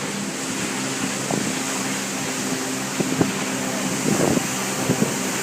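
Cruise boat's engine running steadily with a low hum, under a constant rush of wind and water, with a few short knocks about three and four to five seconds in.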